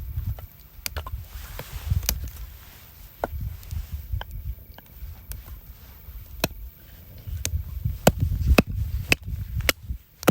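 Wood being chopped or split with a hatchet: a series of sharp, irregular knocks, roughly one a second and coming closer together near the end, over a low rumble.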